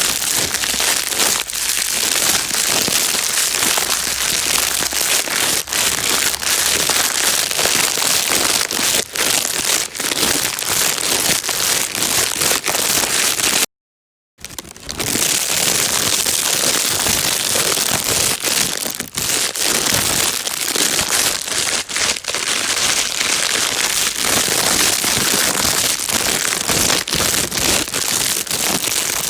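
Plastic bag being crumpled and rustled without pause, a dense crackling hiss used as white noise to calm a baby. It cuts out completely for about half a second midway, then carries on.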